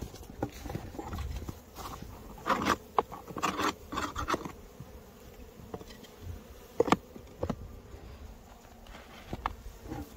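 Honeybees buzzing in short, irregular bursts at a hive being checked, the sound of a live colony, with a few sharp knocks from handling.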